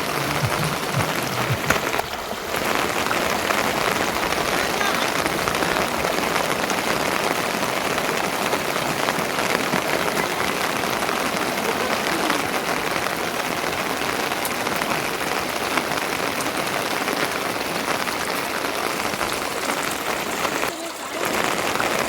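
Steady rain falling, a dense even patter that dips briefly about two seconds in and again near the end.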